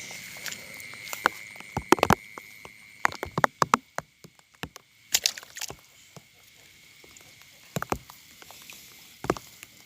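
Irregular splashes and sloshes of someone wading in shallow water, in small clusters, over a steady high-pitched night chorus.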